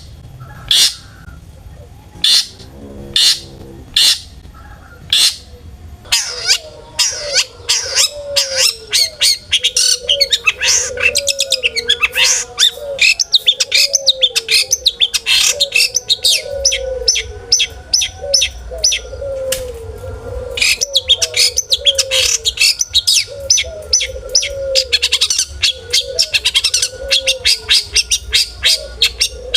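Long-tailed shrike (cendet) singing: sharp harsh calls about a second apart, then from about six seconds a fast, dense chattering song of varied, mimicked notes. A low repeated cooing runs underneath.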